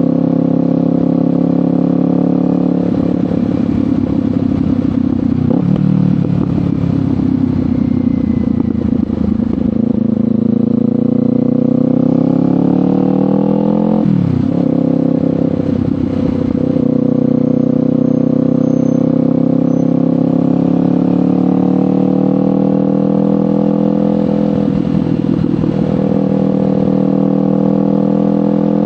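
Kawasaki Ninja 500 parallel-twin engine through a LeoVince GP Corsa Evo exhaust, under way: the pitch climbs steadily as it pulls through a gear, drops sharply at a shift about halfway, then climbs again and dips at another shift near the end.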